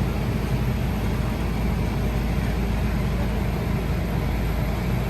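A large engine running steadily at a constant speed, a continuous low drone with no breaks.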